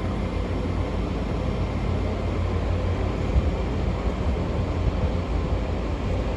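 Great Western Railway passenger train pulling out of the station, a steady low rumble of engines and wheels.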